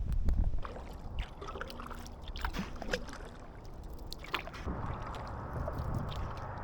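Kayak paddling: the paddle dips into the water with scattered small splashes and drips over a low wash of water, after a brief low rumble at the start.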